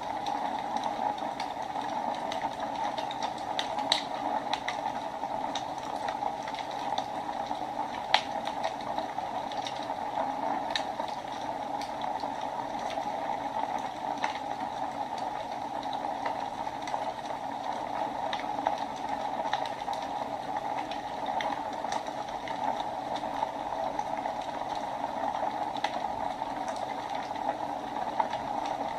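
Wood fire burning in a fireplace: a steady hiss with scattered sharp crackles and pops, the loudest about eight seconds in.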